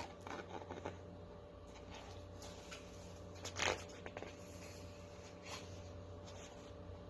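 Faint handling noise: small rustles and clicks over a steady low hum, with one louder rustle about halfway through.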